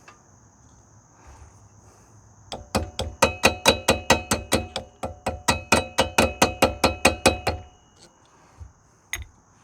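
Rapid hammer blows on metal, about five a second for some five seconds starting a couple of seconds in, each strike ringing. A steady high cricket trill underneath.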